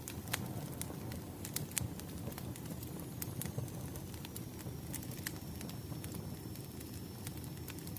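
Crackling wood fire: a steady low rumble of burning logs with frequent irregular sharp pops and snaps.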